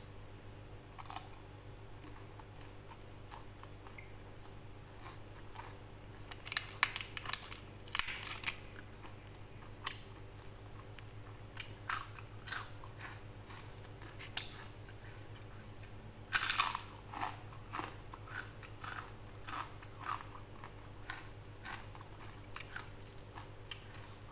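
A person biting and chewing crunchy food close to the microphone: crackly crunches in bursts, loudest about sixteen seconds in, over a steady low hum.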